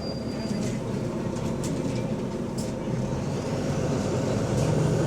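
A bus engine droning steadily, heard from inside the bus, with faint rattles. The drone swells near the end as the engine pulls harder. The bus has an exhaust leak.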